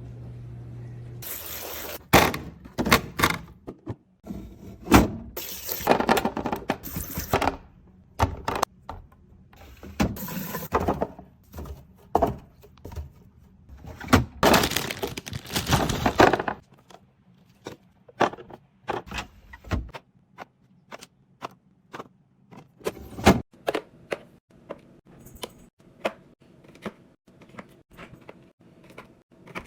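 Groceries and containers being handled and set into a fridge: many sharp knocks, clinks and clicks, with several longer stretches of rustling or pouring noise in the first half that thin out to scattered taps later on.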